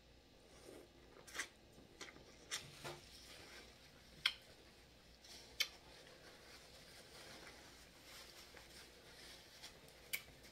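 Close-miked eating sounds of a person biting and chewing corn on the cob, with several sharp wet mouth smacks spaced irregularly over a faint background.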